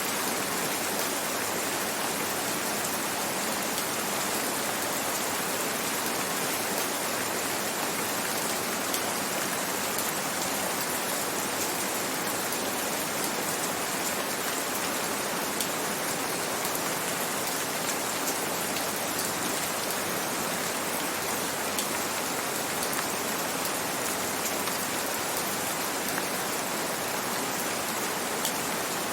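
Steady gentle rain: a continuous even hiss with faint scattered drop ticks.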